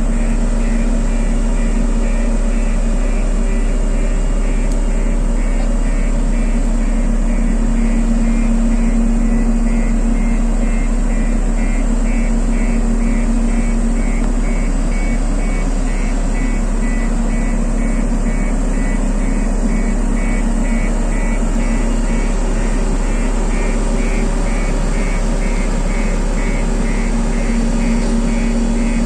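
JCB road roller's diesel engine running steadily under load as the roller works, a constant hum with a fast, regular pulsing over it.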